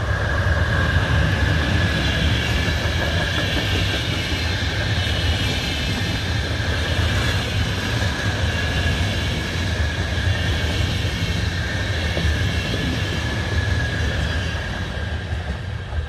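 Locomotive-hauled passenger train passing close by: an electric locomotive followed by a string of coaches rolling past with a steady, loud rumble of wheels on rail. A steady high tone sounds over the rumble.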